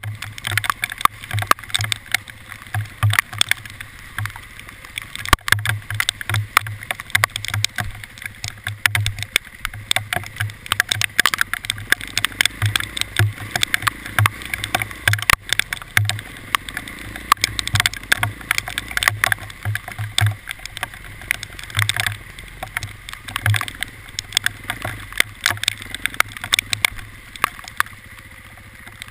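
Hailstones striking hard surfaces: a dense, irregular patter of sharp ticks, with a pulsing low rumble underneath.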